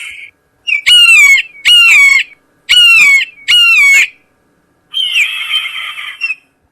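Loud recorded bird calls from a bird-scaring speaker: four descending squawks about a second apart, then a longer, harsher, raspier call.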